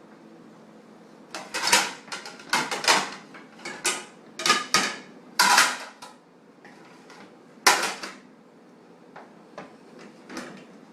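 Plates and dishes clinking and clattering irregularly as they are set into a dishwasher rack. The knocks come in a quick run for several seconds, the loudest a little past halfway, then thin out to a few light taps.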